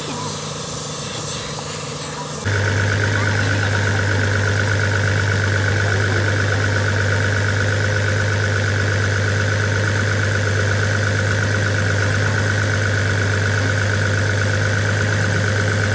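The rebuilt road roller's diesel engine running steadily at idle, a loud even drone that starts abruptly about two and a half seconds in; before that, a hiss-like noise.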